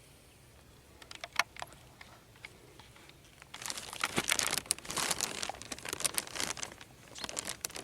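Dry leaf litter and twigs crunching and crackling underfoot. A few isolated crackles come about a second in, then a dense, irregular run of crunching from about halfway through.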